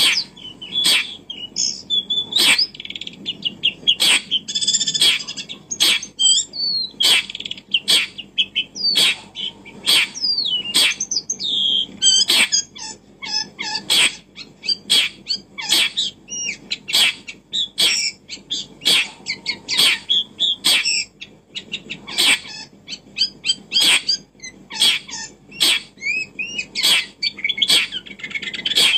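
Birds chirping and twittering continuously in many short high notes, over a sharp click that repeats about once a second.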